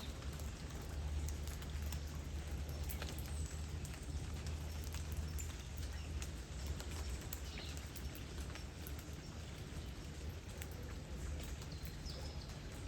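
Light summer rain, with close drops ticking at irregular intervals over a steady low rumble of flowing river water.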